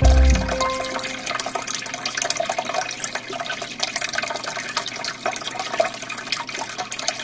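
Aquarium water flowing, a steady trickle and splash with many small drips.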